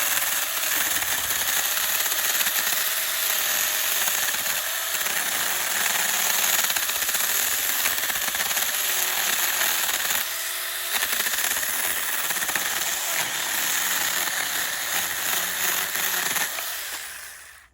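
Battery-powered SAKER mini chainsaw running and cutting through a small tree trunk: a steady motor whine with the chain rasping through the wood. It eases off briefly about ten seconds in and stops sharply just before the end.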